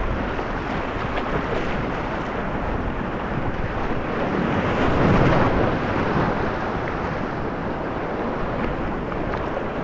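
Whitewater rapids rushing, with wind buffeting the microphone; the rush swells briefly about halfway through.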